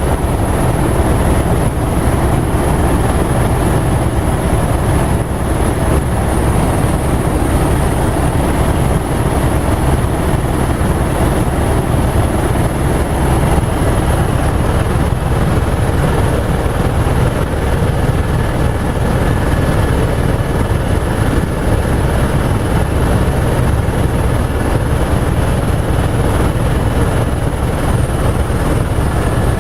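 Helicopter in flight: steady, loud rotor and engine noise with a thin high whine above it, unchanging throughout.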